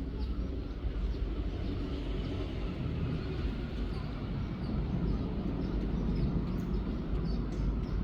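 Steady outdoor background noise: a low rumble with a haze of noise above it and a few faint short high chirps.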